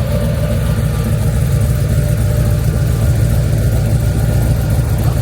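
Motor vehicle engine running steadily at low revs, a low, even sound.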